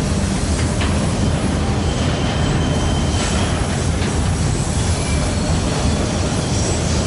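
A train rolling past at close range: a steady rumble of steel wheels on rail, with a few brief faint wheel squeals.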